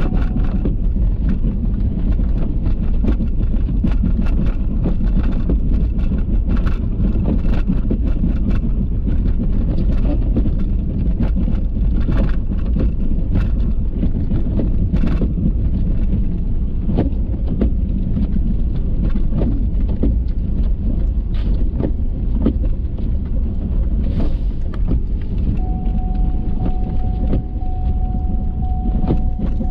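Ford F-350 pickup truck running, heard from inside the cab: a steady low rumble with scattered knocks and rattles. A faint steady tone comes in near the end.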